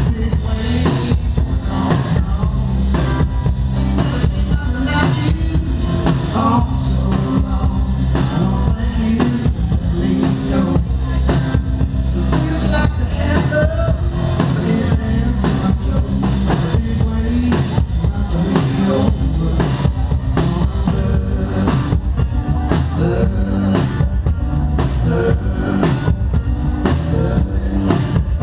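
Live rock band playing at full volume, with a drum kit keeping a steady beat under a heavy bass line and melodic instrument lines.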